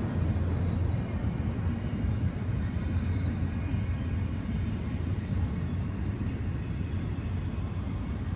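Double-stack intermodal freight train rolling past: a steady, even rumble of steel wheels on the rails, with no horn or clanks standing out.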